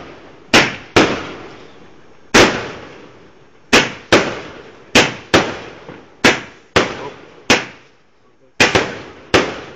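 A large firework cake firing a barrage of about fifteen sharp bangs, each followed by an echoing tail. The bangs come at uneven intervals of half a second to a second and a half, with a brief lull about eight seconds in.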